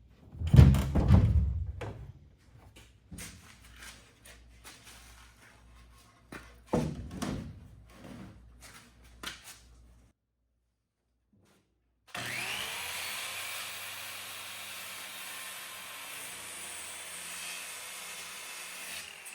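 Several loud knocks and thuds, then after a short break a power tool spins up with a rising whine and runs steadily.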